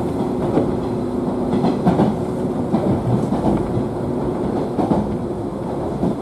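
Running noise of a JNR 113 series electric multiple unit heard from inside the passenger car: a steady rumble of wheels and motors, with irregular clicks as the wheels pass over the track and a faint steady whine in the first couple of seconds.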